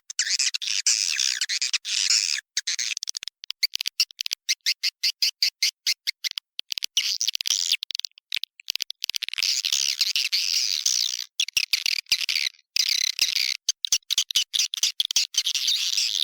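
Swiftlet lure call: dense, high-pitched twittering of edible-nest swiftlets, broken by many short, abrupt gaps. It is a recording made in a swiftlet house and played to draw swiftlets in to nest.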